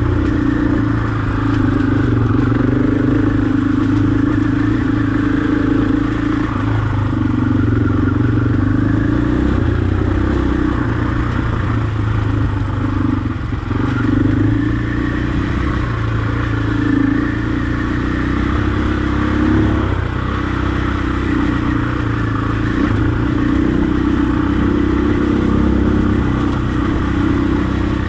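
Husqvarna enduro dirt bike engine running under way on a dirt trail, its pitch rising and falling every few seconds as the throttle opens and closes.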